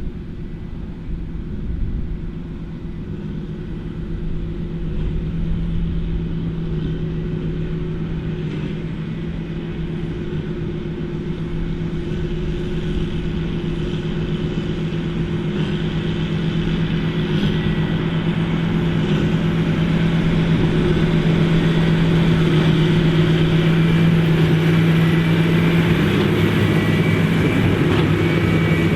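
Large farm tractor's diesel engine running steadily under load, gradually growing louder as it comes nearer.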